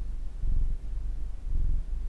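Domestic cat purring close to the microphone: a deep, fast-pulsing rumble that swells and eases about once a second.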